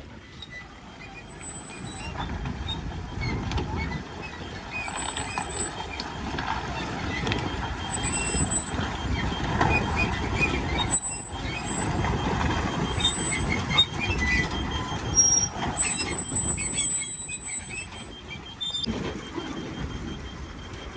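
Heavy vehicle engines running, uneven in loudness.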